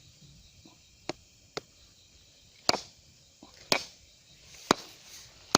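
Chopping: about six sharp blade strikes, roughly a second apart, the later ones loudest.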